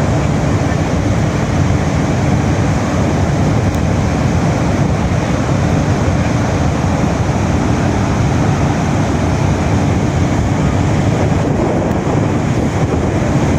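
Loud, steady rushing noise with no distinct tones or breaks.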